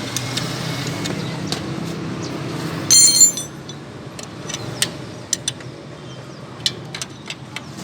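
Metal parts clinking in a workshop: a steady low hum gives way about three seconds in to one loud, briefly ringing metallic clink, followed by scattered light ticks and clicks.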